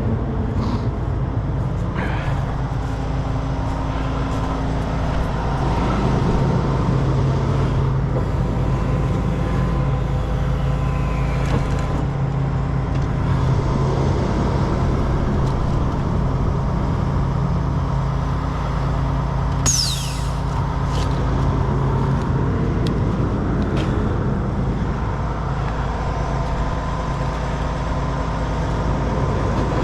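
Heavy truck diesel engine running steadily. About twenty seconds in, a brief high-pitched squeal falls quickly in pitch.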